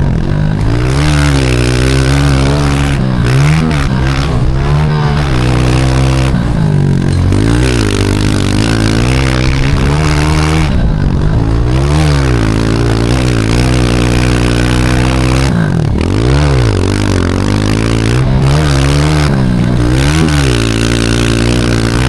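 Pit bike engine heard from a camera on the back of the bike, revving up and dropping back again and again as the rider works the throttle and gears, with a short climb in pitch after each drop.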